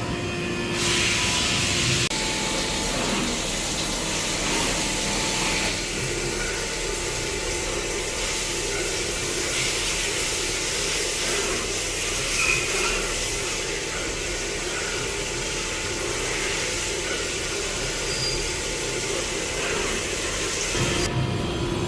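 CNC machine running: a steady hiss with a faint machine hum underneath, its character changing abruptly every few seconds.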